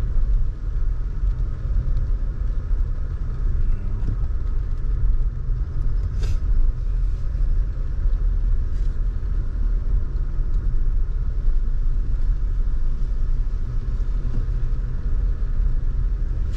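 Steady low rumble of a car driving along, engine and tyre noise heard from inside the cabin, with one brief click about six seconds in.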